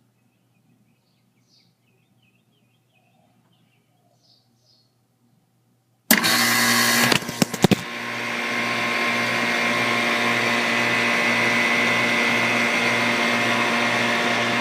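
Faint bird chirps, then about six seconds in the outdoor condensing unit of a central air conditioner starts abruptly. Its compressor and condenser fan come on loud, with a few sharp rattling knocks in the first second and a half. It then settles into steady running: fan rush over a low hum that throbs about twice a second.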